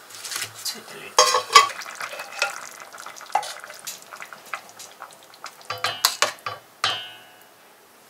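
Pumpkin chunks being stirred in a pot for pumpkin soup: a utensil scraping and knocking against the pan over a light sizzle. Near the end a sizzle fades away.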